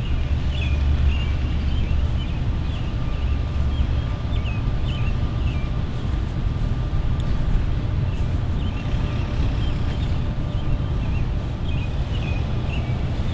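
Low, steady rumble of wind buffeting the microphone, with small birds chirping repeatedly over it.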